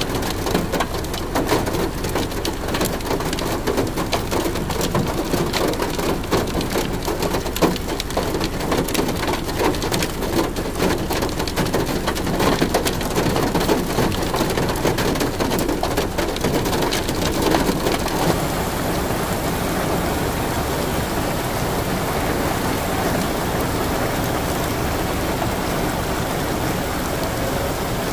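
Rain falling hard on a surface, a dense, irregular patter of drop impacts that about two-thirds of the way through gives way to a smoother, steadier hiss.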